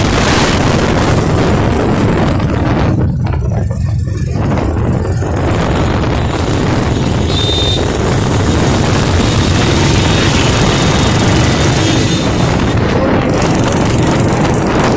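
Royal Enfield Bullet motorcycle's single-cylinder engine running while the bike is ridden, with wind rushing over the microphone.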